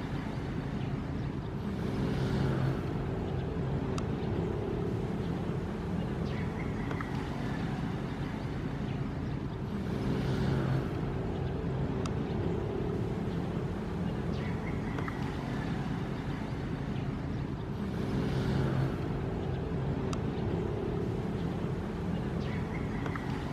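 Ocean waves: a steady low rumble of surf, with a wash of water swelling up about every eight seconds.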